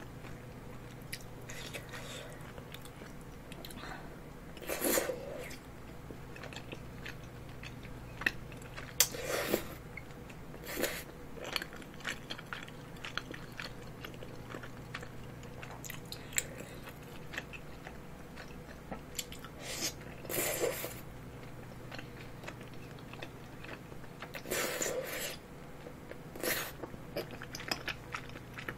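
Close-miked chewing and biting of long, chewy tteokbokki rice cakes and fish cake in a creamy spicy sauce, with a handful of short, louder mouth noises spread through.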